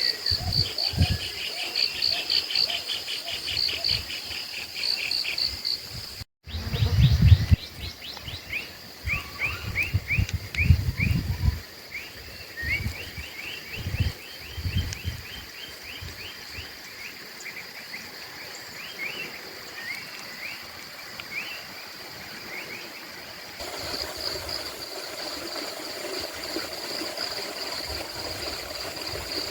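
Tropical rainforest ambience: insects shrill in a steady pulsing chorus while birds call in runs of rapid repeated notes. Irregular low thumps sound through the first half. The background changes abruptly twice.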